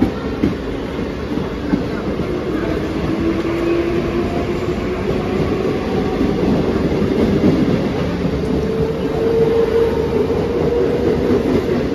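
Mumbai suburban local electric multiple-unit train gathering speed past the platform. Its traction motors give a whine that slowly rises in pitch over a steady rumble, and the wheels click over rail joints a few times near the start.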